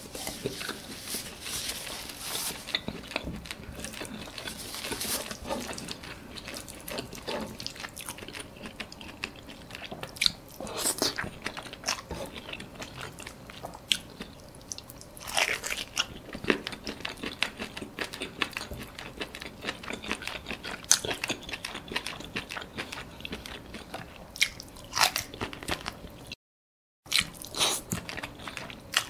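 Close-miked eating sounds: a man biting, chewing and smacking on a piece of squid and fried noodles, with irregular sharp, wet mouth clicks and now and then a louder bite. The sound drops out completely for about half a second near the end.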